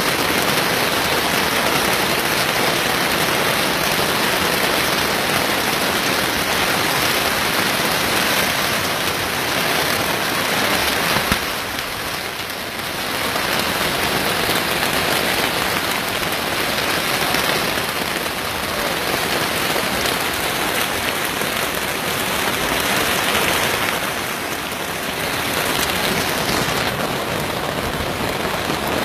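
Heavy rain pouring down steadily, with one brief sharp click about eleven seconds in.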